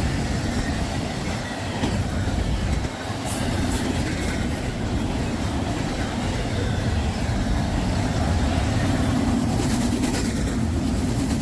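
A train rolling past, its wheels running steadily on the rails.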